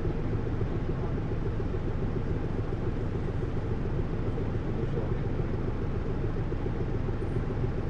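Hino U-HT2MLAA city bus under way, its engine and drivetrain giving a steady low rumble with road noise. The uploader hears the bus as tending toward abnormal noise.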